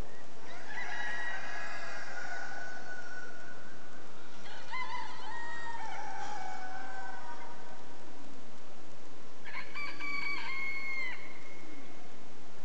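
Roosters crowing at a poultry show: three crows, one starting about half a second in, one about five seconds in and a shorter one about ten seconds in, each falling in pitch towards its end.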